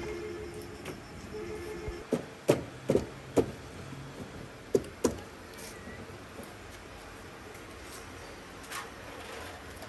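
A run of about six sharp knocks, bunched between about two and five seconds in.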